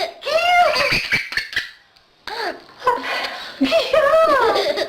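High-pitched laughter in two bouts of rising-and-falling giggles, with a short pause between them.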